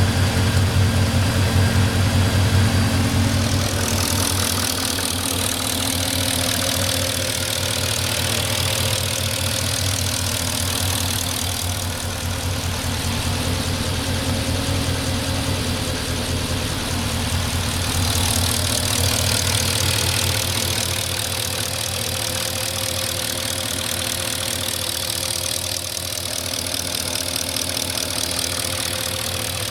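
A 2004 Porsche Cayenne S's 4.5-litre V8 idles steadily with a rapid ticking, about three minutes after a cold start. The deep rumble eases about four seconds in and a brighter hiss comes up. The owner takes the ticking for normal and not a sign of scored cylinders or piston slap.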